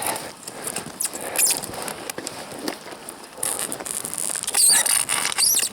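Crunching and squeaking of deep frozen snow, with rustling and scraping of fir branches, as a felled fir is shoved with the shoulders. It grows louder and harsher from about halfway through, with squeaky high scrapes near the end.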